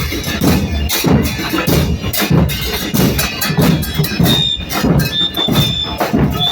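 Murga drum section playing bombos con platillo (bass drums with cymbals mounted on top) in a fast, driving carnival rhythm of sharp, evenly repeating hits. A high thin tone sounds briefly a few times in the second half.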